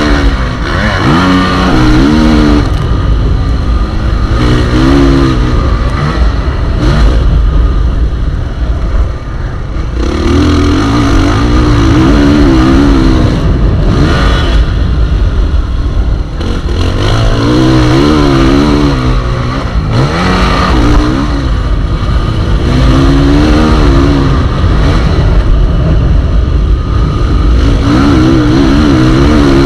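Motocross bike engines revving hard, rising and falling in pitch again and again as the bikes accelerate and back off, over a steady low rumble.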